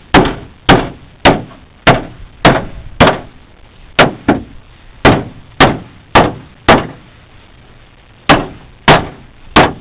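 Repeated hammer blows on sheet-metal car body panel, about one strike every 0.6 s, each with a short metallic ring, pausing briefly near the end before three more strikes.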